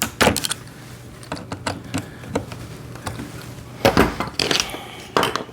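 Scattered clicks and light knocks of parts and small hardware being handled during assembly of a kids' ride-on motorcycle, with a louder clatter about four seconds in and another knock near the end.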